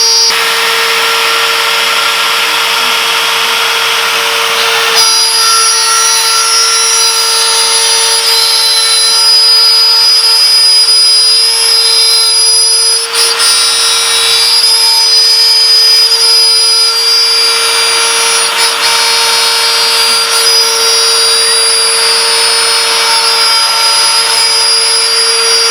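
CNC router spindle running with a steady high-pitched whine as it cuts 1/4-inch maple plywood, the sound shifting abruptly about 5 and 13 seconds in.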